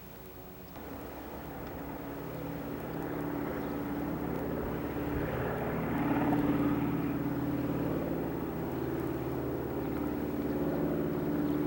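An engine running steadily with a low hum, growing louder over the first half.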